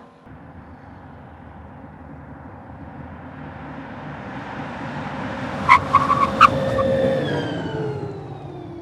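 A car passing by: its noise builds for about seven seconds, then fades as its tone drops in pitch. A few sharp clicks come at the loudest moment.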